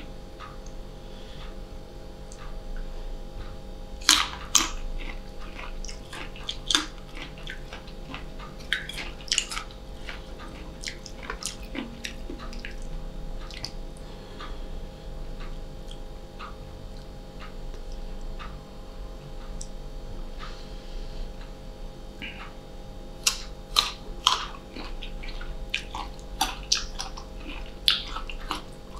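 Close-miked chewing of crisp unripe green mango slices dipped in a thick sweet fish sauce, with wet mouth clicks and sharp crunches that come in bunches, loudest about four seconds in and again in the last several seconds. A faint steady hum runs underneath.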